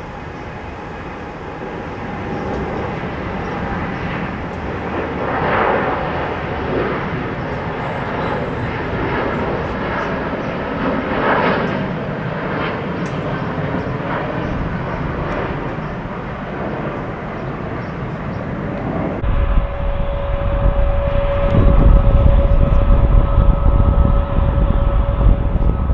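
Jet airliner engine noise: a steady rumble for most of the time, then, about 19 seconds in, a sudden change to a louder, deeper rumble with a steady whine.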